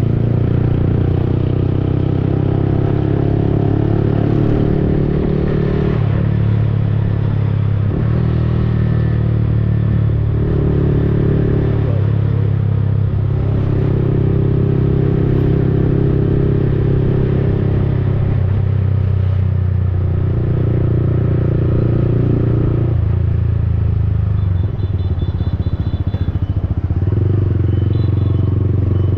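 Yamaha XSR155's single-cylinder engine running through an aftermarket Akrapovic-replica exhaust while riding. The engine note shifts up and down in steps several times as the throttle and gears change.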